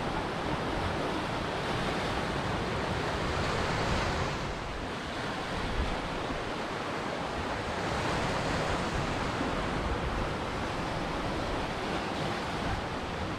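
Ocean surf, a steady rush of breaking waves that swells and eases, with lulls and surges every few seconds.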